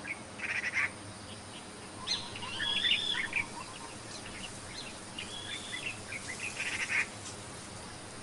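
Wild birds calling over steady outdoor background noise: clusters of short chirps, and a couple of arched whistled calls about three seconds and five seconds in.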